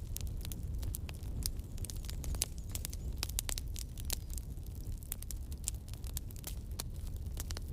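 Campfire crackling: frequent sharp, irregular pops and snaps over a low steady rumble.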